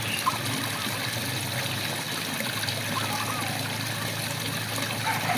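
Steady rain falling, with frogs giving short warbling, looping calls about three times over it.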